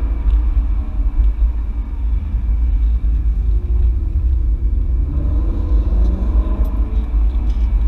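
BMW E92 M3's V8 engine heard from inside the cabin over a heavy low road rumble. The revs drop about halfway through, through a tight bend, and climb again as the car pulls away.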